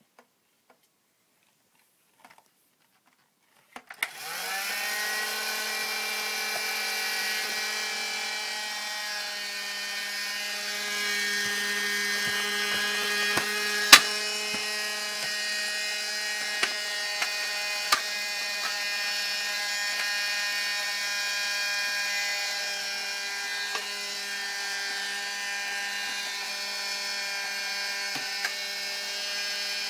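Vacuum cleaner switched on about four seconds in, its motor spinning up quickly and then running steadily. A few sharp knocks sound over it, the loudest about ten seconds after it starts.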